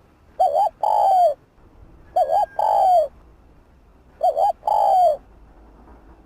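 Spotted dove cooing: three calls about two seconds apart, each a quick double note followed by a longer coo that falls in pitch.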